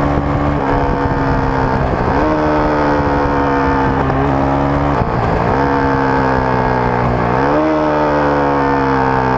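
Rusi Sigma 250 motorcycle running on its stock exhaust, heard close to the rear of the bike. The engine note slowly sags and then climbs again three times, as the throttle is eased off and reopened.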